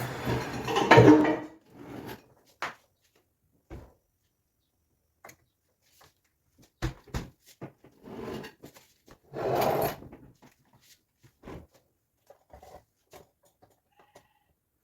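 A fridge and the things in it being handled and shifted: a loud scrape and clatter in the first second and a half, scattered light knocks and clicks, and another scraping rustle near ten seconds.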